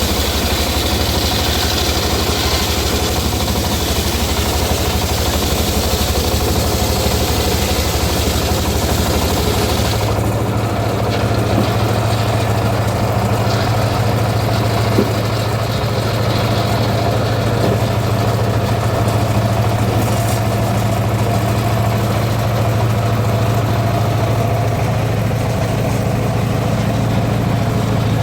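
A homemade circular saw rig runs steadily on its engine. A higher hiss over it cuts off about ten seconds in, and the engine keeps running.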